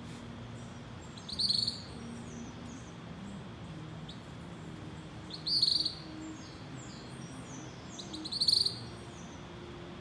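A songbird singing the same short, loud high-pitched phrase three times, about every three to four seconds, each phrase trailing off into a few shorter, fainter notes. A steady low hum runs underneath.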